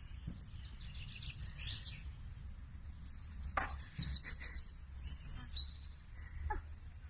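Birds chirping in short high calls, some gliding in pitch, over a low steady background rumble, with one sharp click about three and a half seconds in.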